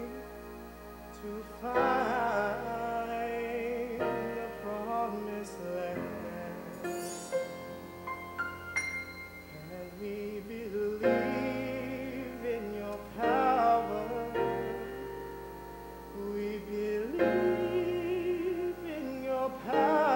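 Live musical theatre singing: voices holding long notes with vibrato over instrumental accompaniment.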